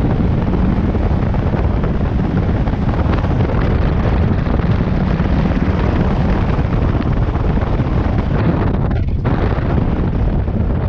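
Loud, steady wind buffeting on the microphone over a motorcycle's running engine while riding, with a brief dip in the rush about nine seconds in.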